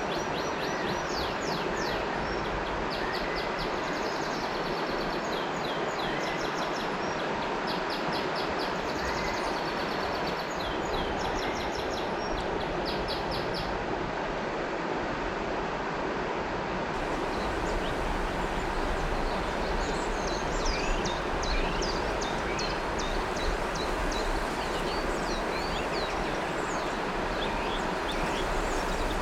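River water flowing steadily, with birds chirping and trilling over it; the chirps grow busier in the second half.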